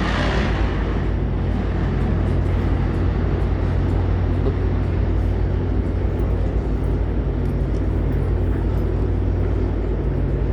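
Amtrak San Joaquins diesel passenger train running past, a steady low rumble with an even engine hum.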